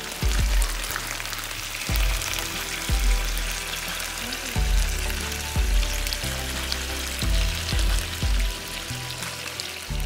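Chicken pieces sizzling as they brown in their own rendered fat in a frying pan, under background music with a bass line and a steady beat.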